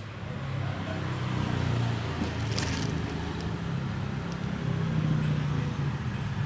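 Motorcycle engine running steadily at a low speed, growing louder over the first second or two.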